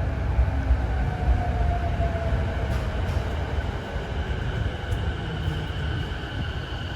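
Electric train running along the station platform: a steady low rumble of wheels on rails that slowly fades, with a faint whine sliding down in pitch in the first few seconds.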